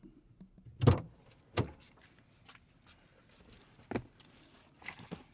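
Someone getting into a truck: a few sharp clicks and knocks from the door and cab, then a jangle of keys about four seconds in.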